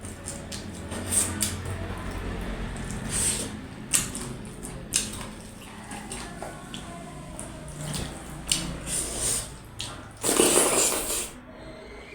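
Close-up eating sounds from someone eating dhido with curry: wet chewing and lip smacks, a string of short clicks, and a louder wet rushing noise of about a second near the end.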